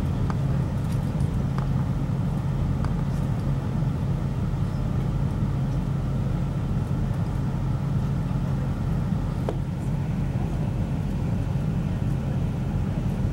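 Interior of a class 175 diesel multiple unit running at speed: a steady low engine drone and wheel-on-rail rumble, with a few faint clicks.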